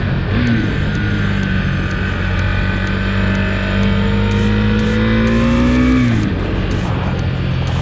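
Husqvarna Svartpilen 401's single-cylinder engine pulling under acceleration, its pitch climbing steadily for about five seconds, then dropping sharply about six seconds in.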